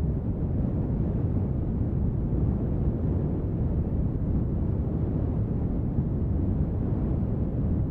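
Steady brown noise mixed with rain sound: an even, deep rumble with very little hiss, unchanging throughout.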